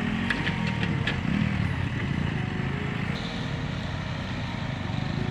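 Motorcycle engine running, its pitch swelling and falling a little in the first second and a half, with a few short clicks about a second in.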